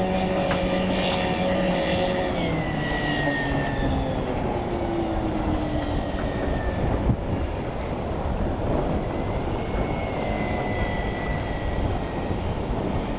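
Small boat's motor running steadily. About two seconds in, its pitch drops as it throttles back, and then rushing water and wind noise take over, with the motor fainter underneath.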